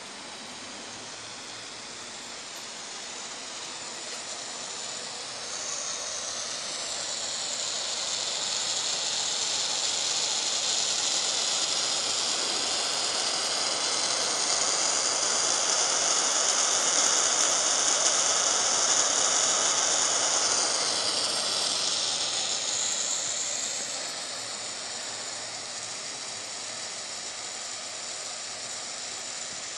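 Antique steam heater hissing loudly and steadily. The hiss swells to its loudest in the middle, with a high, faintly whistling edge, then eases back down to a steady hiss.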